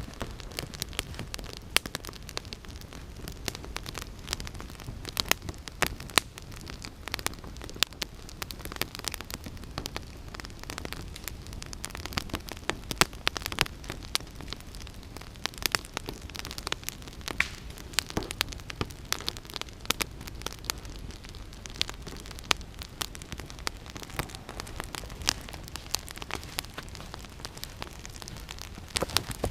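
Campfire of damp deadwood crackling, with a constant run of irregular sharp pops and snaps.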